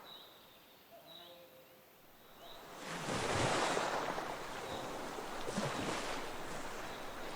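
Ocean surf: waves washing in, with a broad swell of water noise about three seconds in and another near the end. A few faint, short, high chirps sound in the quieter first seconds.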